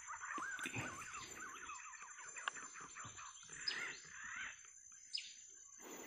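Wild birds chirping and twittering in quick, wavering notes, most busily over the first couple of seconds with a few more calls later, over a steady high-pitched whine.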